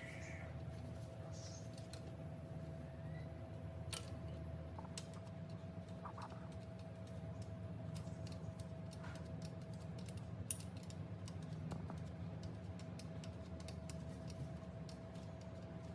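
Scattered light clicks and metallic taps of hand tools on engine parts, a few sharper about four and ten seconds in, over a steady low hum.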